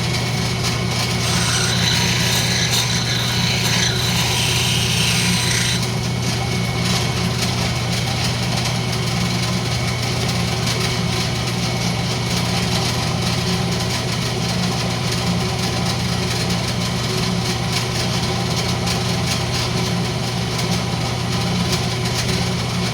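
Wood lathe running steadily with a low motor hum. From about a second in, a turning tool cuts into the spinning rosewood with a loud scraping hiss that stops abruptly about six seconds in; the lathe keeps running.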